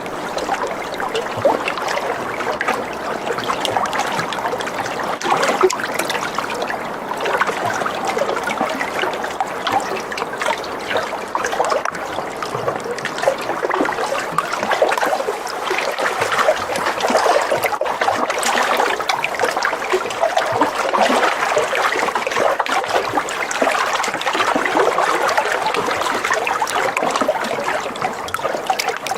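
Water splashing and trickling steadily, a dense continuous spatter with no pauses.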